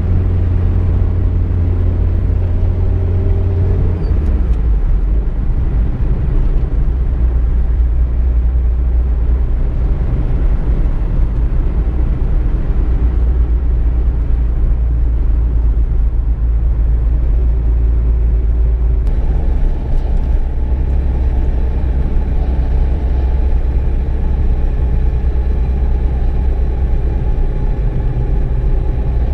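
Car being driven: a steady low rumble of engine and road noise, with the engine note dropping about four seconds in and the tone changing again near nineteen seconds.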